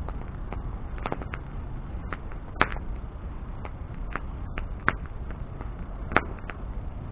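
Wood bonfire burning with a steady low rush of flame and irregular sharp crackles and pops, a few louder snaps about 2.5, 5 and 6 seconds in.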